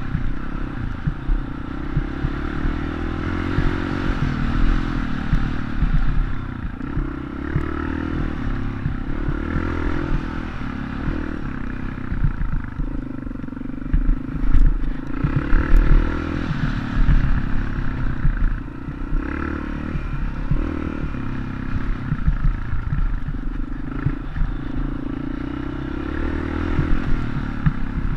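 Dirt bike engine running under way, its revs rising and falling, with heavy low rumbling and clatter throughout.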